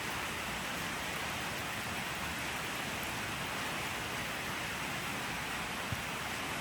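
Steady, even rain hiss with no pauses or changes, and one small tap near the end.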